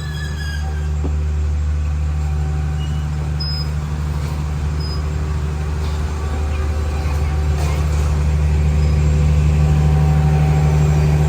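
Diesel locomotive engine running with a steady low drone, slowly growing louder.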